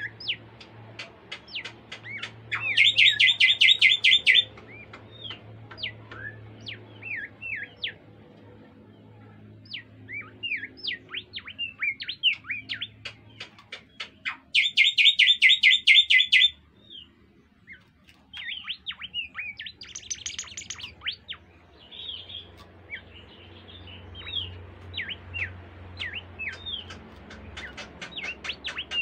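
Song of the bird known in Indonesia as the bimoli: a run of short, sweeping whistled notes, broken twice by a loud, rapid trill lasting about a second and a half. A faint steady low hum runs underneath.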